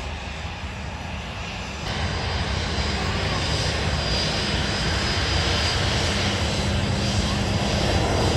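Airliner engines rumbling as a plane passes the airport spotting area. The noise jumps louder about two seconds in and keeps swelling, with a faint high whine over a steady low hum.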